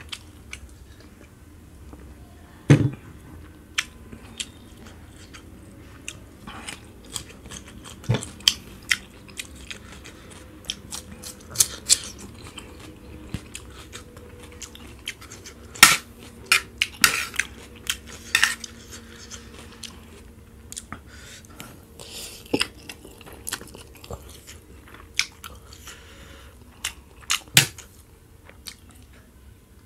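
Close-miked chewing of spicy instant noodles with egg and cucumber, with wet mouth noises. Scattered sharp clicks, a few of them louder, from the fork and glass on the plate and table.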